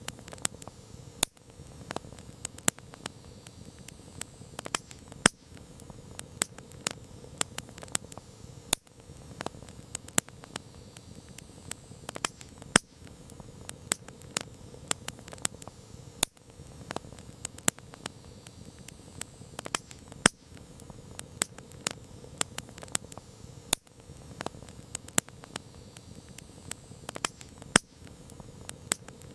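Campfire crackling: many irregular sharp pops and snaps over a soft, steady hiss of flames.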